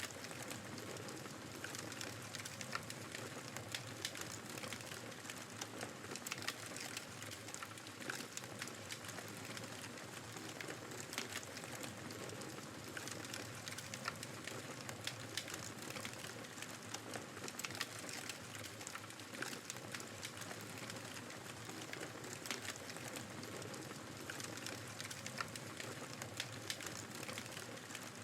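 Wood fire crackling in a fireplace, with frequent small pops and snaps, over a steady rush of blizzard wind.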